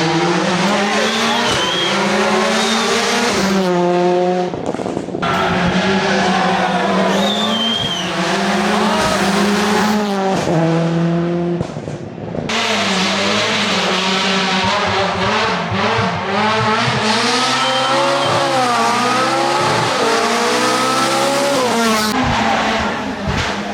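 Rally car engines revving hard, pitch climbing and dropping through gear changes, with tyre squeal.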